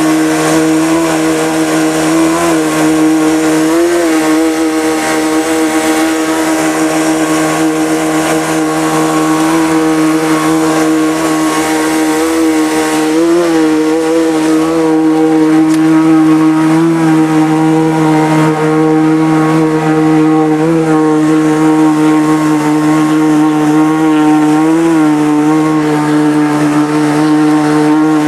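Motor of a homemade amphibious Subaru car-boat running steadily under way on the water, a loud even drone whose pitch lifts briefly every few seconds.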